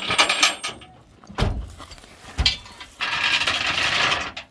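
Metal clicks and two dull knocks, then a steady mechanical ratcheting run lasting about a second and a half near the end.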